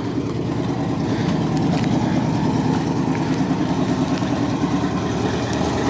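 Pontiac V8 engine of a 1956 GMC half-ton pickup idling steadily.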